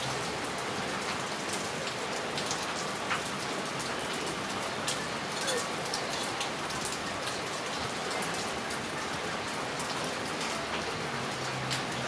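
Heavy rain falling steadily: a dense, even hiss with many sharp drop ticks close by.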